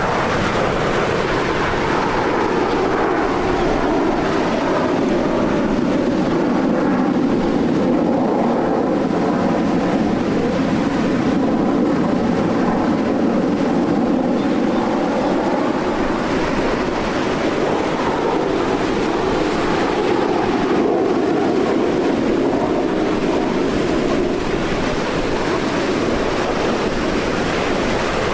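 Jet engine noise from the Frecce Tricolori's Aermacchi MB-339 jets, a steady loud roar with a slowly shifting whine in it as the aircraft fly the display.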